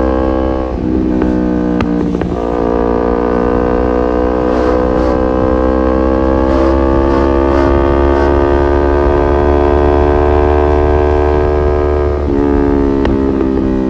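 Kawasaki Ninja 250Fi parallel-twin engine through an R9 H2 SS aftermarket exhaust, running under load while ridden. The pitch drops at upshifts about a second in and at two and a half seconds, then holds in one gear, rising slowly for about ten seconds before another shift near the end.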